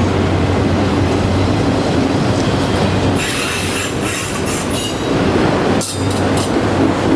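Train rolling past with a steady heavy rumble; from about three seconds in, high-pitched wheel squeal comes and goes in repeated bursts.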